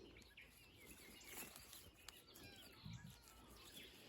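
Faint chirping of small songbirds over a quiet background, a few short rising and falling calls scattered through the stretch.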